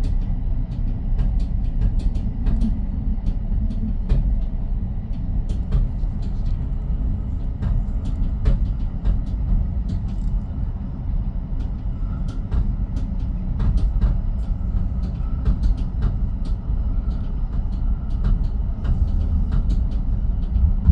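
Commuter train rolling along the track, heard from inside the rear car: a steady low rumble with frequent light clicks and knocks from the wheels and the car.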